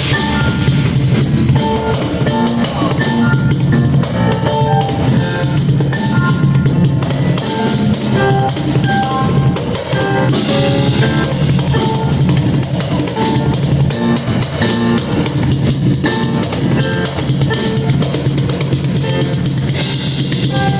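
A rock band playing live, the drum kit keeping a steady beat under a strong bass line and short, quick melodic notes.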